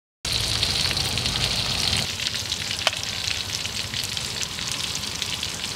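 Fish meatballs frying in hot oil in a wok: a steady sizzle thick with fine crackling, starting abruptly just after the beginning.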